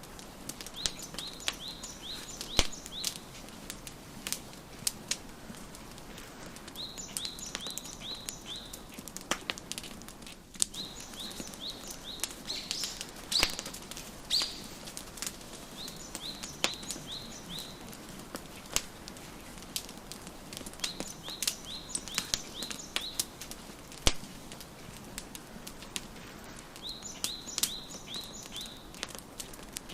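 Wood fire crackling with scattered sharp pops, over a bird singing short rapid series of chirps that come again every few seconds.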